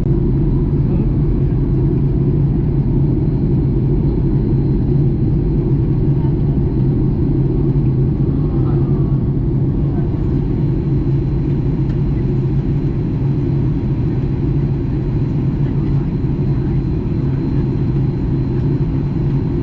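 Steady in-cabin drone of a Boeing 737 MAX 8 in flight: its CFM LEAP-1B engines and the airflow make an even, low rumble, with no changes in pitch or level.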